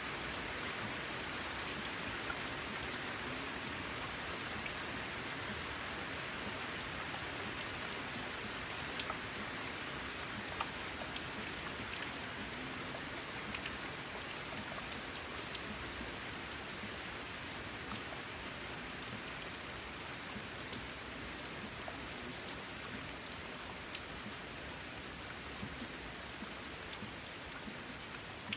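Steady rain on a corrugated zinc (tin) roof: an even hiss of rainfall with single drops ticking sharply here and there.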